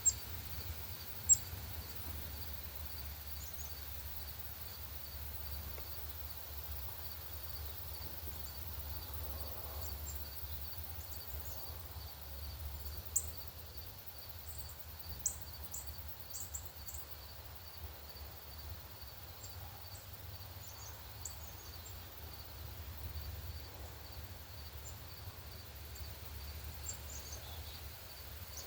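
Songbirds giving short, sharp chip notes, scattered and irregular, a few of them close and loud. Underneath runs a faint steady insect chirping, about twice a second, and a low steady rumble.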